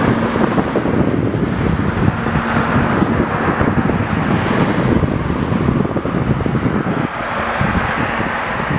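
Jet airliner engines running with a steady rumble, heavily buffeted by wind on the microphone.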